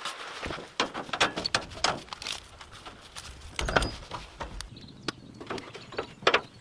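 Irregular light knocks and clicks, with a heavier thump about four seconds in.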